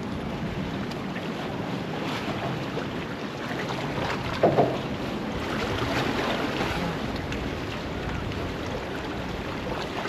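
Steady wind and surf noise at the water's edge, with wind buffeting the microphone. A short pitched cry stands out briefly about halfway through.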